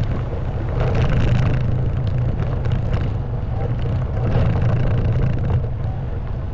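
Honda Wave 110cc single-cylinder four-stroke engine running steadily as the motorbike rides over a rough stone and mud track, with knocks and rattles from the bumps.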